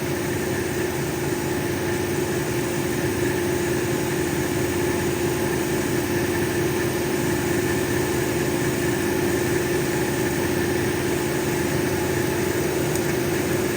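A lapidary cabbing machine's motor and wheels running at a steady hum.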